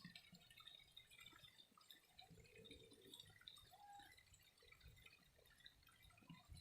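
Faint trickling water with many small scattered drips and splashes.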